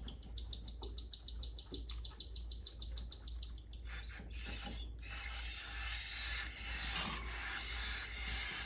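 Cockatiel chicks begging while being fed by their father: a rapid, even run of high peeps, changing about five seconds in to a continuous raspy chatter.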